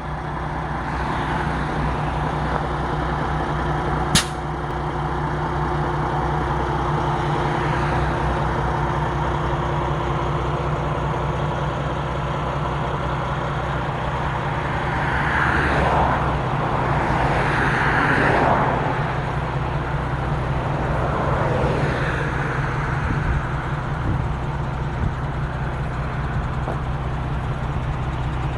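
MAN 11.136 truck's diesel engine running steadily. A sharp click comes about four seconds in, and the sound swells twice about halfway through.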